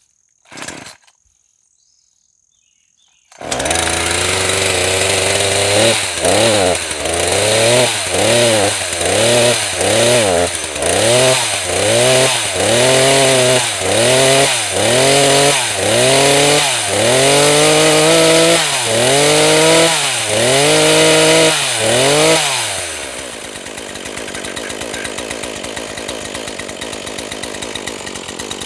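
NEO-TEC NH 841 two-stroke gas chainsaw starting about three seconds in, then running with its revs rising and falling over and over, about once a second. Near the end the revs drop and it settles to a lower, steadier sound.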